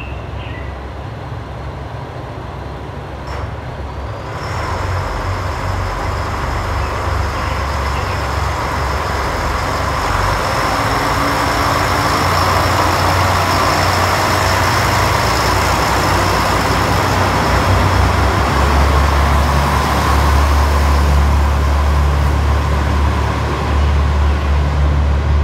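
Diesel railcar pulling out of a station and passing close by: a low engine rumble that builds steadily as it draws away under power, with a thin high whine over it.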